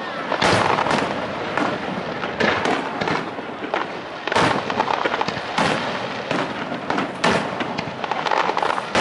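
Aerial firework shells bursting in quick succession, a bang about once a second, with crackling from the stars in between.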